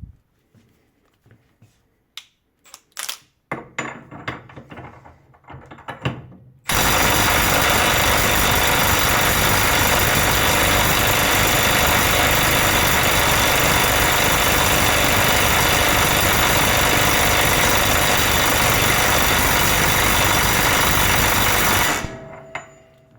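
Parkside Performance PPDSSA 12 A1 12V cordless impact wrench hammering continuously for about fifteen seconds, starting about seven seconds in and stopping abruptly near the end, run hot to push it toward its over-temperature cutoff. A few handling clicks and knocks come before it.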